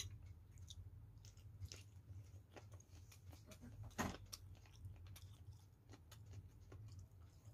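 Faint chewing of boiled chicken, with scattered small clicks and a sharper click about four seconds in, over a low steady hum.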